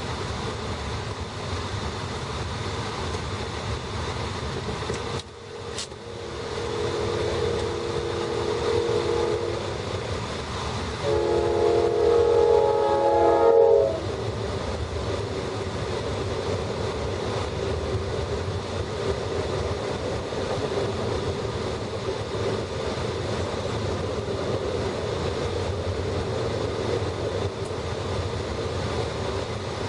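A train passing: the locomotive horn sounds two long blasts about seven seconds in, the second louder, over the steady rumble and clatter of the cars rolling by.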